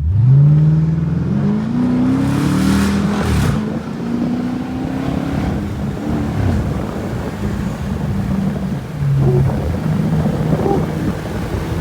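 Straight-piped 5.7 L Hemi V8 of a 2012 Dodge Charger R/T, its resonator and mid-muffler deleted, accelerating hard: the exhaust note jumps in loudness at once and the revs climb over the first few seconds, drop back, climb again, then settle into a steadier drone with small rises and falls.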